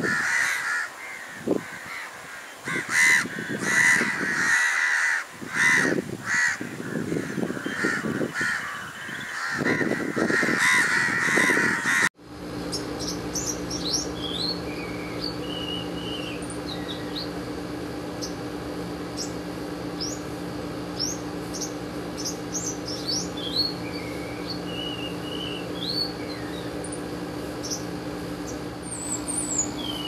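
Harsh, repeated bird calls for about the first twelve seconds. Then, after a sudden cut, thin high chirps and short whistled notes from a male olive-backed sunbird over a steady low hum.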